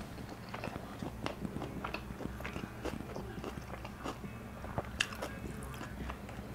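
Close-up chewing of a shawarma wrap in pita bread: irregular soft, moist mouth clicks and smacks, several to the second.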